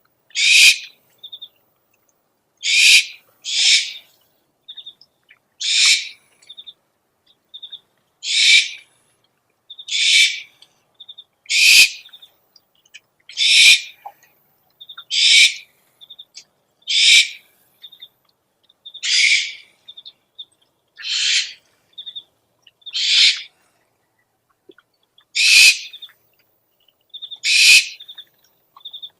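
Owl calling over and over: about fifteen short, harsh, rasping screeches, one every one to two seconds, with faint short high pips between them.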